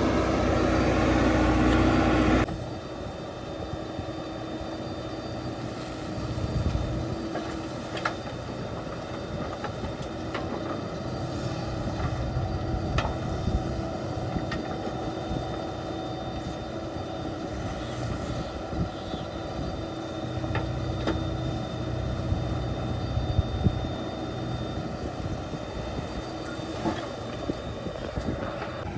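Diesel engine of a JCB 3DX backhoe loader running. It is loud for the first two and a half seconds, then drops abruptly to a lower steady hum, with scattered clanks and knocks from the machine working.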